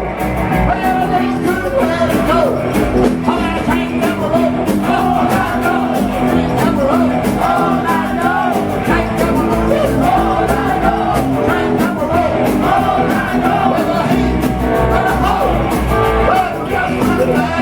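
Rock and roll band playing an instrumental stretch of the song, with no sung words.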